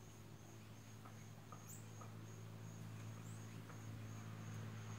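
Faint garden background: a bird gives brief rising chirps, about two seconds in and again past three seconds, over a faint high note that pulses a couple of times a second and a steady low hum.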